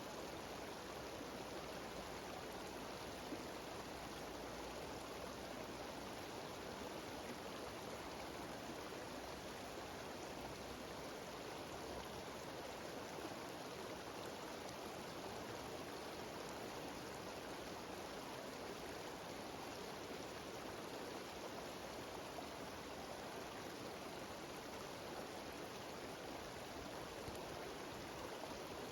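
Mountain waterfall cascading down a stream: a steady, even rush of water.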